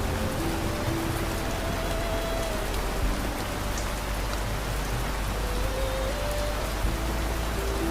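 Steady rain falling, an even hiss of drops with a low rumble underneath. A faint, slow melody of long held notes plays beneath the rain.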